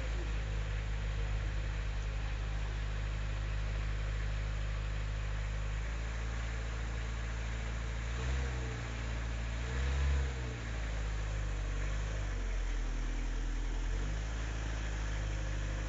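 Peugeot 309 engine idling steadily, blipped twice in quick succession about halfway through, its pitch rising and falling each time. The idle sits slightly lower for a couple of seconds afterwards. The owner says its head gasket is blown.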